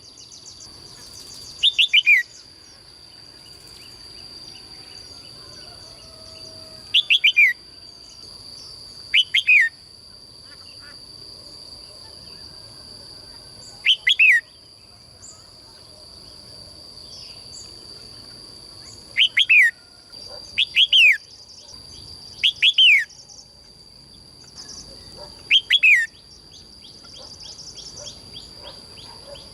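A caged songbird calling repeatedly: about eight short calls spaced a few seconds apart, each a quick run of falling chirps. A steady high-pitched tone continues under the calls throughout.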